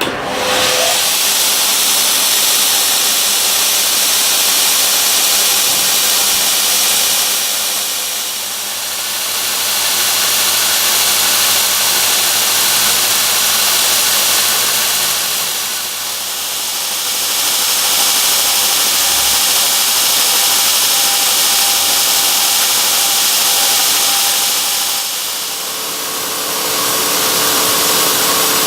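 Electric grinding tool running steadily with a loud high hiss and a steady motor hum, easing off briefly three times.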